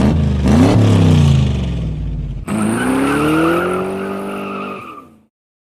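Car engine revving in two passes: pitch swinging up and down, then after a sudden cut a second run climbing steadily in pitch, ending abruptly.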